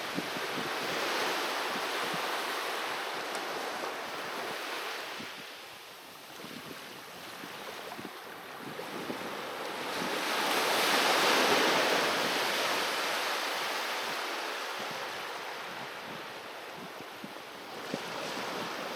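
Sea waves breaking and washing up on the shore in slow swells, easing off about six seconds in and surging loudest around eleven seconds in before drawing back.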